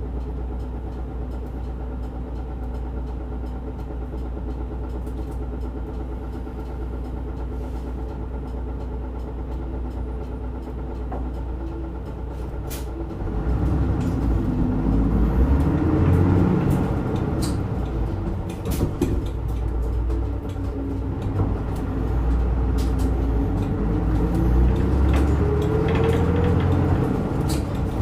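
Route bus No. 385's diesel engine idling steadily, heard from inside the cabin. About 13 seconds in it grows louder and its note wavers and shifts as the bus pulls away and accelerates.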